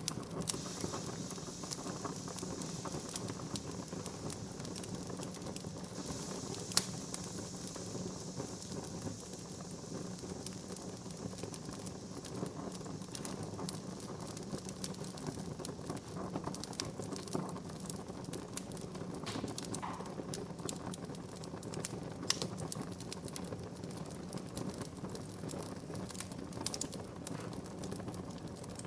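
Wood fire in a fireplace burning with a steady hiss and many small crackles, and a few sharper pops; the loudest pop comes about a quarter of the way in.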